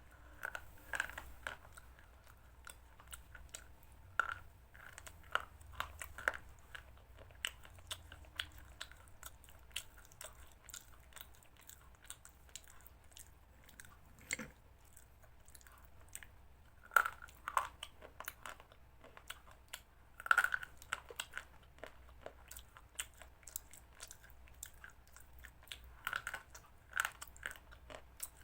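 A person chewing and biting into crunchy chicken salad: irregular crisp crunches, a few of them louder than the rest.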